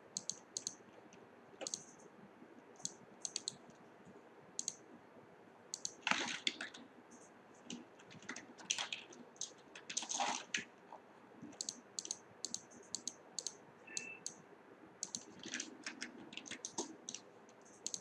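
Irregular sharp clicks and light taps of hard objects being handled, with a few louder knocks or scrapes about six, nine and ten seconds in.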